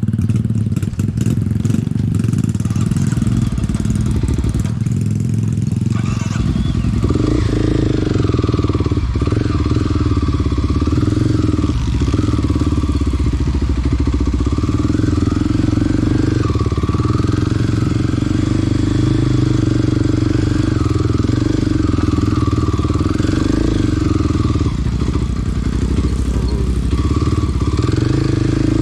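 Small dirt bike's engine running while being ridden, its pitch wavering up and down with the throttle; the note grows fuller about six seconds in.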